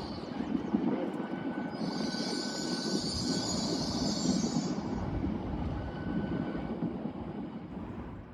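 A train running slowly through the station, a steady low rumble with a high hiss that drops out briefly and returns for about three seconds.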